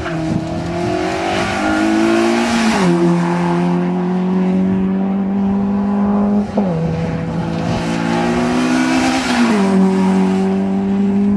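Peugeot 205 rally car engine pulling hard, its pitch climbing steadily and then dropping sharply at each upshift, three times.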